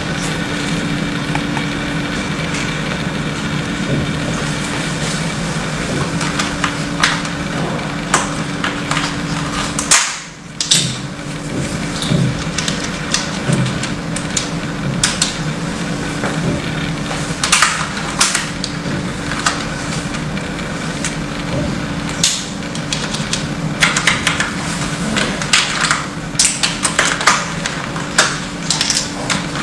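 Scattered plastic clicks and knocks from a mechanical keyboard being taken apart by hand, over a steady background hum. The clicks come more thickly in the second half.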